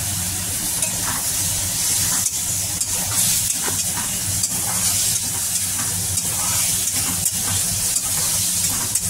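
Pieces of ambarella (amra) frying in hot oil in a metal kadai, a steady sizzle, while a spatula stirs them with frequent short scrapes and clinks against the pan.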